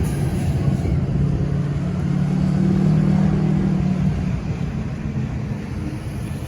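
Garbage truck's diesel engine running as the truck drives by, a low steady drone that grows louder around the middle and eases off near the end.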